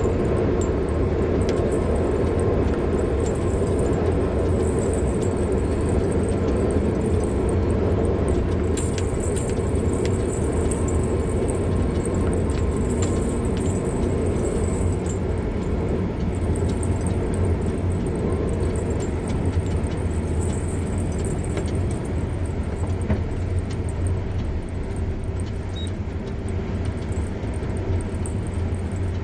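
A car driving: steady road and engine noise, with faint scattered ticks and rattles.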